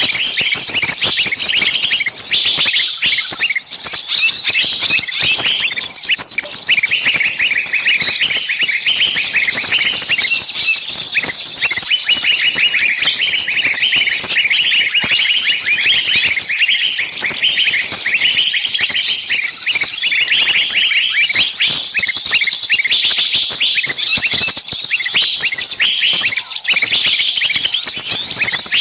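A dense, unbroken chorus of many small songbirds giving rapid, high-pitched chirps and shrill calls, all overlapping. It is a bird-luring recording of small birds calling noisily, the agitated 'screaming, trapped' calls made to draw other small birds in.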